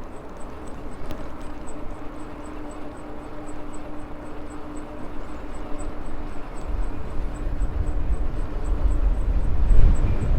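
Riding a Maxtron Mule folding e-bike: a steady motor hum with road noise and a faint regular ticking about four times a second. From about two-thirds in, wind buffeting on the microphone grows into a heavy low rumble that drowns the hum.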